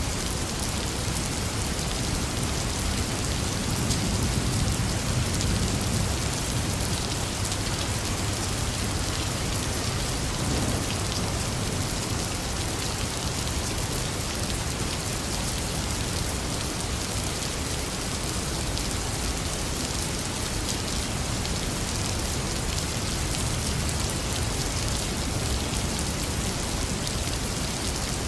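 Steady rain falling and pattering on surfaces, an even hiss with no let-up. A low rumble swells slightly about four seconds in.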